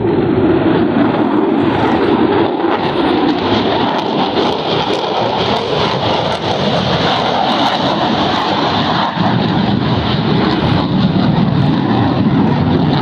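Loud, steady engine noise of a fixed-wing aircraft in flight.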